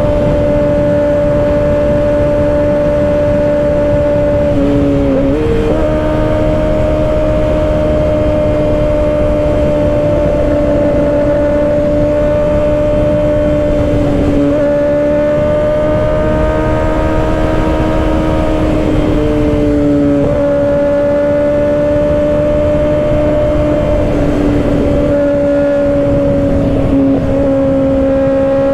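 Kawasaki Ninja ZX-6R 636's inline-four engine running at a high, steady pitch while riding, with wind rush over the microphone. The engine note dips briefly three times, about five, fourteen and nineteen seconds in, and climbs back each time.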